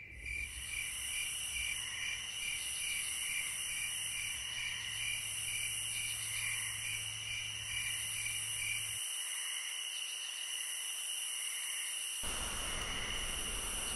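Night insects, crickets, chirring steadily with a high continuous trill and a regular pulsing chirp, over a low hum that cuts out about two-thirds of the way through.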